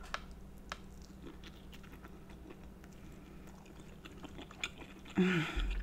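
Close-miked chewing of soft, saucy deshelled seafood, with faint wet mouth sounds and scattered small clicks. About five seconds in, a short hummed voice sound.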